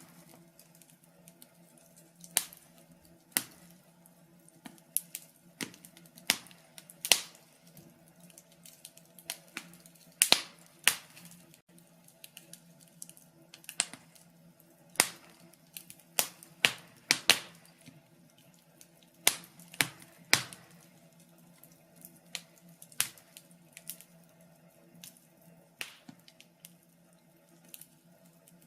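Wood fire crackling in a fireplace: irregular sharp pops and snaps, one to two a second, some in quick clusters, over a faint steady low hum.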